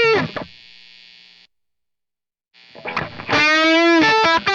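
Electric guitar played through the Line 6 HX Stomp's Marshall JCM 800 amp simulation with high-gain distortion, in an 1980s metal-style phrase. A held note with vibrato rings out and stops, there is about a second of silence, then the phrase starts again about three seconds in.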